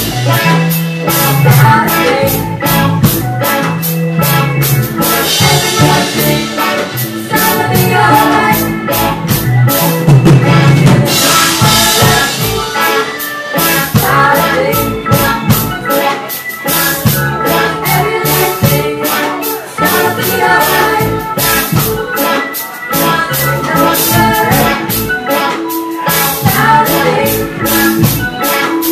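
Live reggae band playing amplified, with a drum kit keeping a steady beat under bass and other instruments.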